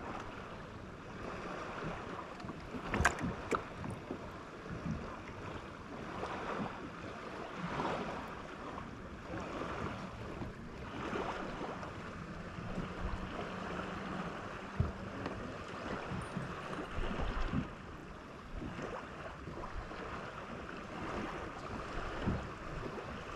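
Small waves lapping against a kayak hull, rising and falling every few seconds, with wind on the microphone and a couple of light knocks about three seconds in.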